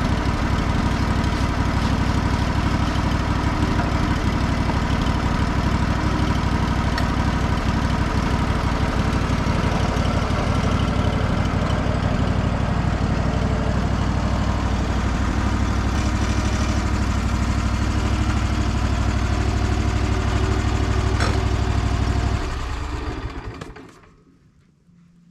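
Wood-Mizer LT15 Wide sawmill's engine running steadily, then shut off about 22 seconds in and dying away over a second or two.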